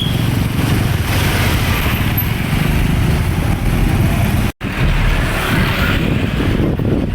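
Roadside traffic noise: the steady, loud engine and tyre sound of passing vehicles, trucks and motorcycles among them. The sound drops out for an instant about four and a half seconds in.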